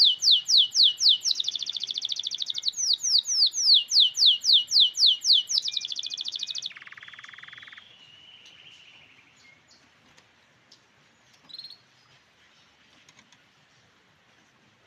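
Grey canary singing: a loud run of rapid, repeated downward-sweeping notes, about four a second, broken by buzzy trills. The song stops about seven seconds in, followed by a short lower trill, then only faint background.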